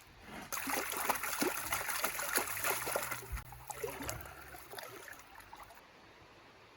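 Water splashing and swishing in a gold pan as gravel is washed: a run of small splashes that fades out about five seconds in.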